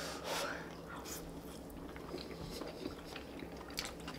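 Close-miked chewing and wet mouth sounds of people eating a mouthful of fried rice, with a few sharp clicks near the end.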